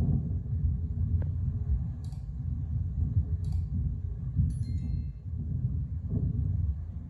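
A steady low rumble, with a few faint brief clicks and a short high ping about halfway through.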